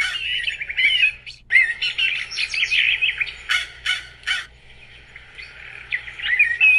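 Wild birds chirping and twittering in quick runs, with a few short, harsh calls between three and a half and four and a half seconds in, then a brief lull before the chirping picks up again near the end.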